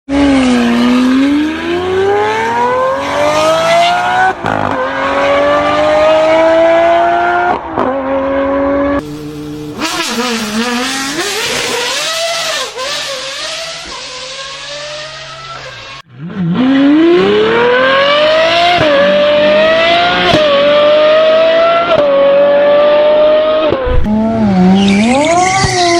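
A series of short clips of high-revving V12 and W12 supercar engines accelerating hard. The engine note climbs steeply and drops at each upshift. In the middle comes a quieter stretch where the engine pitch dips and rises, as on a blip or downshift.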